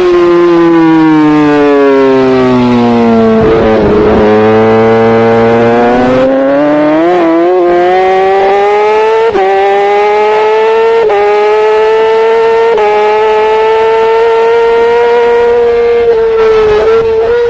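Racing superbike engine heard from an onboard camera, with wind on the microphone. The engine note falls steadily for about four seconds as the bike slows, then climbs back up through quick gear changes about every two seconds. It holds at high revs and begins to drop again near the end.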